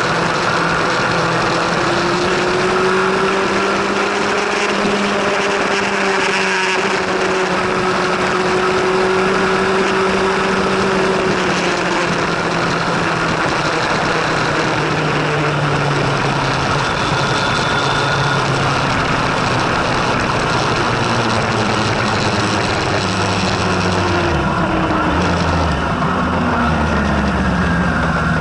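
1000 cc superbike-class racing motorcycle engine running hard, its pitch gliding slowly up and down over a dense rush of noise; near the end the pitch falls.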